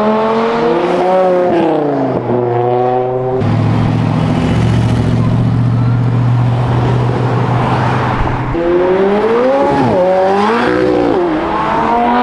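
Supercar engines revving hard as the cars accelerate away one after another, the pitch climbing and dropping with each upshift. About three seconds in this gives way suddenly to a deep, steady engine rumble at low revs for around five seconds, then another car revs up through its gears near the end.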